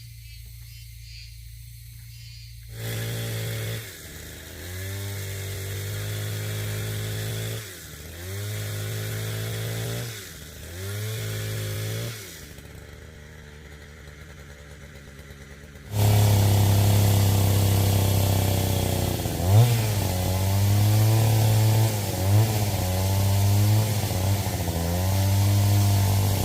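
A small engine or motor running. Its pitch repeatedly sags and recovers between several loud stretches, then it runs louder and more steadily from a little past halfway, with a couple of short sharp peaks.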